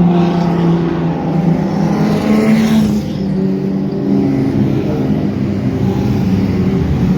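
Several race car engines idling together on the starting grid, a mix of steady engine notes at slightly different pitches overlapping.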